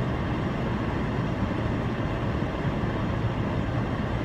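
Stationary car's engine idling, a steady low hum heard from inside the cabin.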